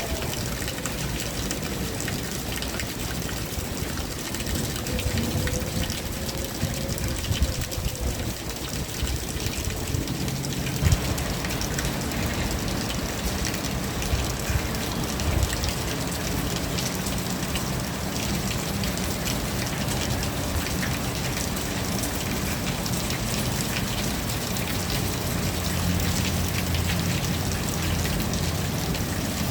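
Steady rain falling, with many separate drop ticks over an even hiss. A low rumble comes in about a third of the way through and grows stronger near the end.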